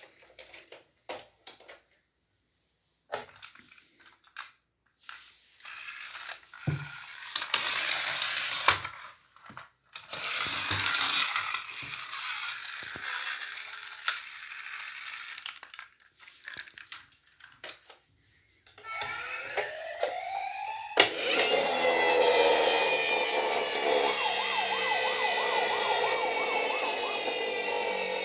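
Battery-powered toy rescue robots' electronic sirens: after a stretch of clicks and rattling from toys being handled, one siren starts wailing about two-thirds of the way in, and a couple of seconds later several more join in, their rising and falling wails overlapping loudly.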